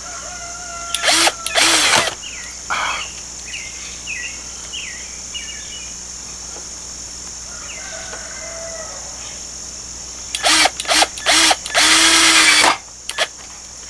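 Power drill driving a screw into wood in short bursts: two brief runs about a second in, then several quick bursts and a longer run near the end. Crickets drone steadily underneath.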